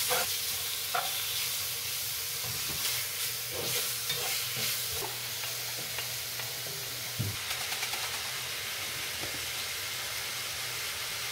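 Sliced pork and vegetables sizzling in a hot stainless-steel frying pan, a steady hiss. Tongs and a wooden spoon click and scrape against the pan over the first few seconds, with a single knock about seven seconds in.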